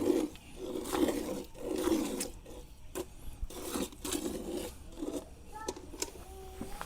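A cow being milked by hand: milk squirting into a pail in regular strokes, about one a second.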